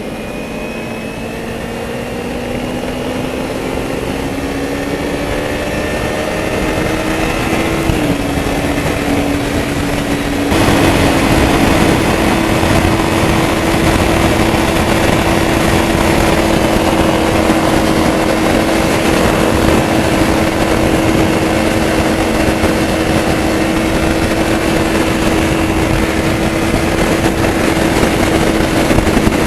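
Kawasaki Ninja 300's parallel-twin engine rising steadily in pitch under acceleration for about eight seconds, dipping briefly at a gear change, then holding a steady high drone at cruising speed. About ten seconds in, a rushing noise jumps suddenly louder over the engine.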